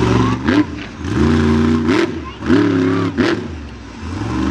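Monster truck engine revving in surges, the throttle cut and reopened three times so the engine note falls and climbs back again.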